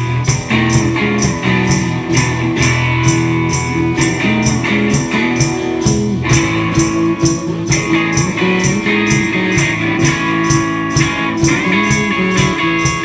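Guitar playing a song's instrumental passage in a steady strummed rhythm, with moving bass notes under the strums.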